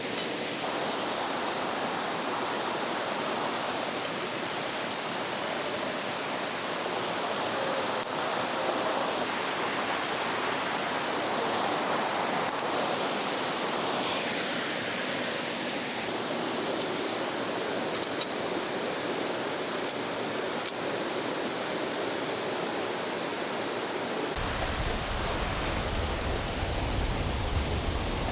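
A river rushing steadily. A low rumble joins in near the end.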